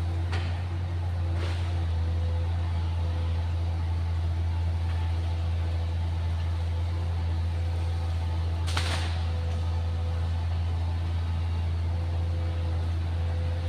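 Excavator's diesel engine running at a steady speed, with a few short knocks or clanks, the sharpest about nine seconds in.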